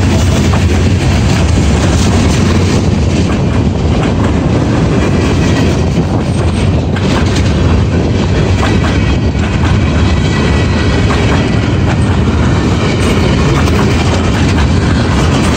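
Freight train cars rolling past steadily on the rails, a continuous loud wheel-and-rail noise with scattered clicks from the wheels.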